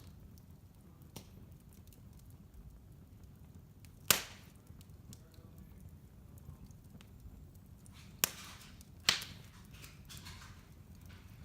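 Wood fire burning in a fireplace: a low steady rumble with faint crackles and three sharp, loud pops from the burning logs, one about four seconds in and two close together near the end.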